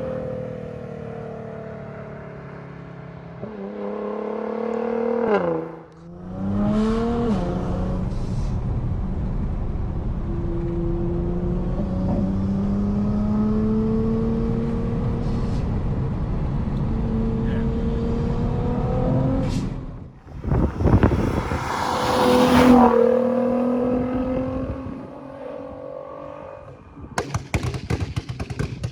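Nissan GT-R R35's twin-turbo V6 and loud exhaust under way: the engine note falls away, then revs up and drops sharply a few times as it changes gear. It then holds a steady pull with the pitch slowly rising. About 20 s in there is a loud surge with a rushing noise, and near the end comes a quick run of sharp cracks.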